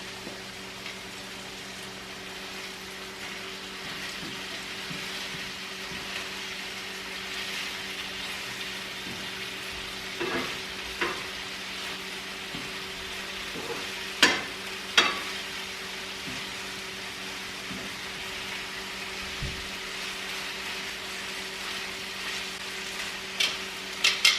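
Chicken cutlets frying in oil in a skillet, a steady sizzle with a low hum under it. A few sharp clicks come about ten and fourteen seconds in, and a quick run of them near the end.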